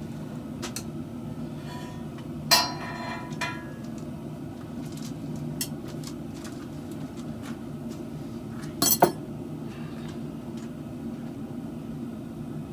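Metal clanking against metal: one sharp ringing clank about two and a half seconds in and a quick double clank near nine seconds, with a few lighter ticks, over a steady low hum.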